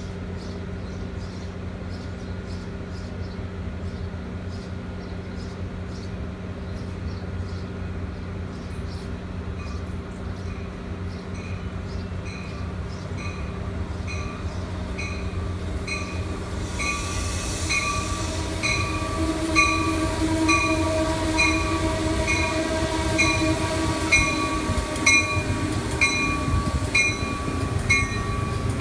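Shore Line East push-pull commuter train drawing into the station cab car first, its rumble growing louder as it nears. Its bell rings steadily about once a second, and there is some wheel squeal as the coaches roll past near the end.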